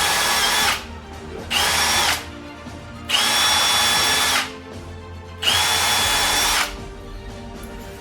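Electric drill run in four bursts, two short and two of over a second, each spinning up quickly to a steady high whine.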